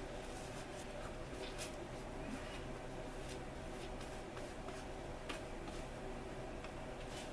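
A few faint, light clicks spread over several seconds, above a steady low hum.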